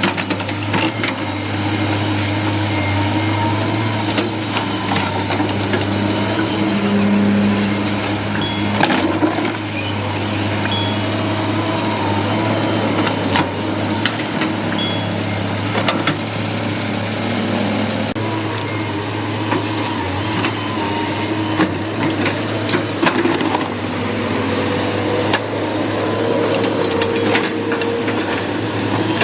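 Excavator's diesel engine running steadily at work, a constant low hum with shifting tones above it and scattered knocks and clanks.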